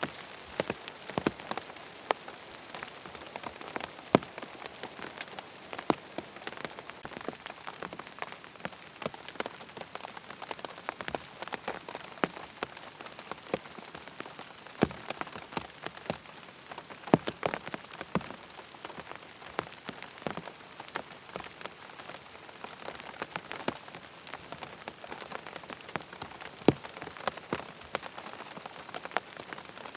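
Steady rain falling on a surface: an even hiss with many sharp, irregular drops tapping through it.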